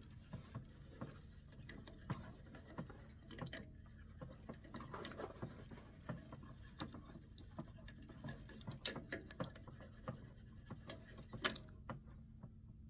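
Faint, irregular scratching and rubbing with many small clicks and taps as melted wax is worked onto a turned walnut wand. It starts suddenly and stops near the end on a sharp click.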